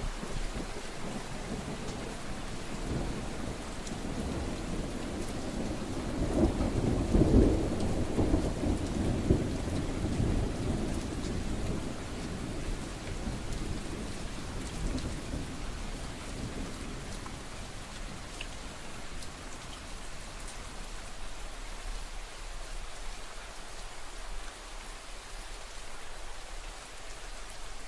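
Steady rain falling, with a low roll of thunder that builds a few seconds in, peaks and dies away over about ten seconds.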